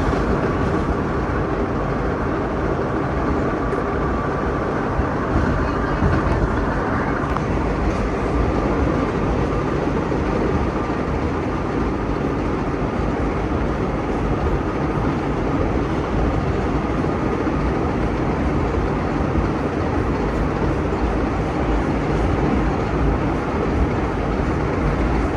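Vintage subway train running along the track, heard from the rear cab: a steady rumble of wheels and running gear with a faint thin whine over it.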